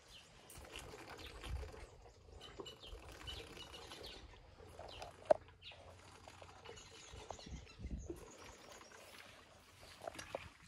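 Faint bird chirps and low rustling, with a single sharp click about five seconds in.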